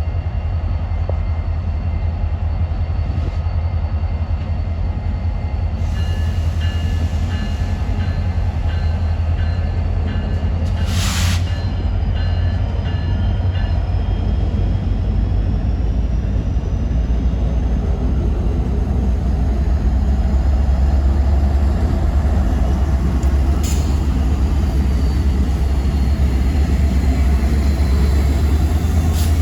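Freight train rolling past: a steady heavy low rumble, with faint thin high tones partway through and a brief hiss about eleven seconds in.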